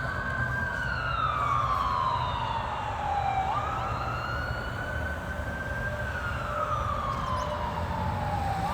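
Emergency vehicle siren in wail mode, from Battalion 80 responding alongside the fire engine. The pitch climbs quickly, holds high, then slides slowly down, over and over about every four and a half seconds, with a low rumble underneath.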